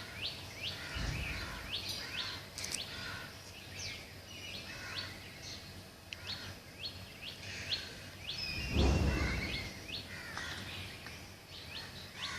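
Small birds chirping over and over, short quick chirps that slide downward in pitch. About nine seconds in there is a brief low rumble.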